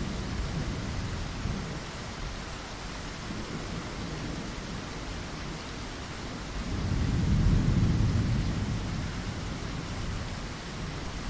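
Steady rain hiss with a deep rumble of thunder that swells about six or seven seconds in, peaks and fades over the next few seconds.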